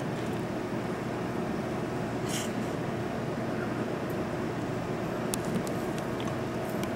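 Kintetsu electric train running along the tracks beneath, pulling into the platform: a steady low running noise, with a brief hiss about two and a half seconds in and a few light clicks near the end.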